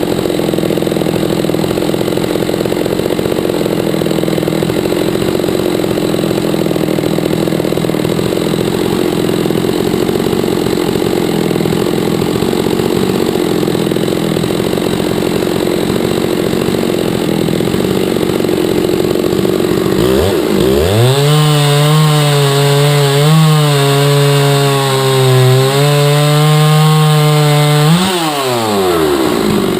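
Chainsaw engine running steadily while milling hard maple. About two-thirds of the way through, its pitch sweeps sharply up and holds high and steady for several seconds, then drops near the end.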